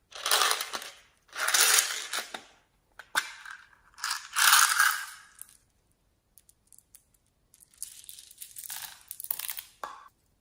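Slime being squeezed and pressed by hand, giving a run of crackling, crunchy bursts: four loud ones in the first five seconds, then quieter, scattered crackles and small pops.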